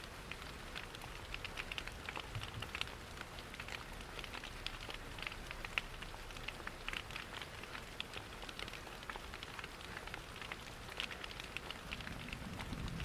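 Steady rain pattering, mixed with the crackle of a wood fire: many small, irregular ticks over a soft, even hiss.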